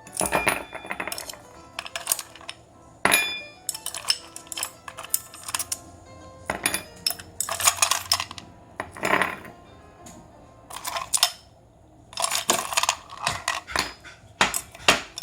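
Repeated metal clinks and clatters of cooking gear being handled on a small iron griddle and fire stand, irregular and sharp, over soft background music.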